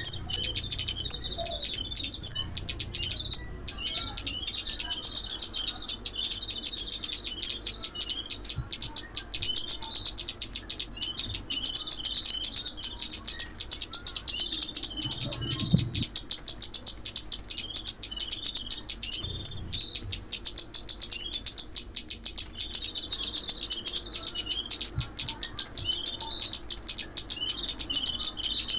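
Small songbird's song: rapid, high-pitched chirps and trills almost without pause, with a thin held high note in places. This is a lure recording of the bird called chim ốc mít in Vietnamese, played to call the birds into a trap.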